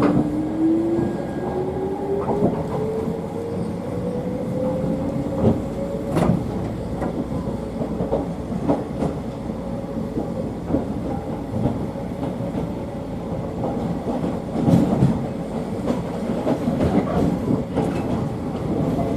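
Toyama Chiho Railway electric train under way: the motor whine rises steadily in pitch as the train gathers speed over the first several seconds, then holds. Throughout, the wheels rumble and click irregularly over the rail joints.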